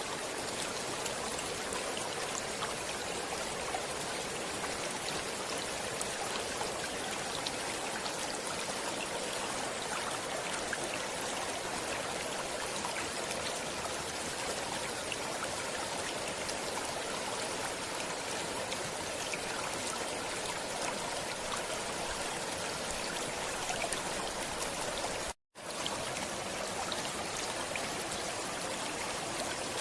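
Stream water flowing steadily, with fine splashing. It cuts to silence for a split second near the end.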